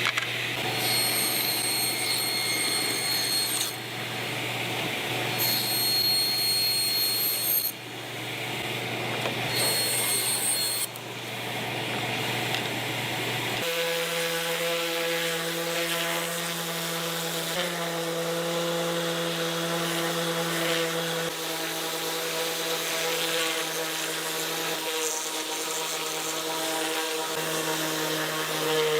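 Woodworking power tools running. First a steady motor hum with three spells of high-pitched cutting noise, then, about fourteen seconds in, a sudden change to a different machine's steady, higher hum.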